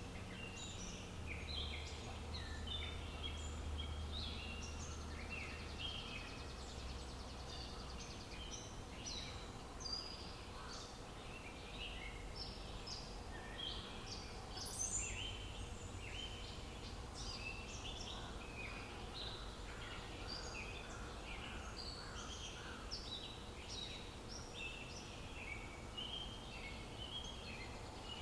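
Outdoor ambience of many songbirds chirping at once, dense short calls overlapping throughout, over a low background rumble that fades after the first several seconds.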